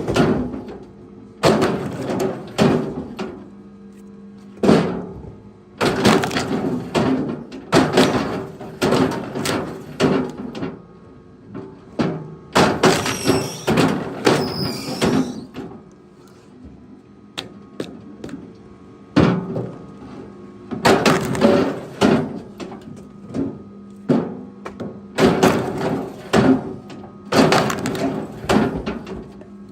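Repeated heavy wooden thunks, one every second or two, over a steady low hum.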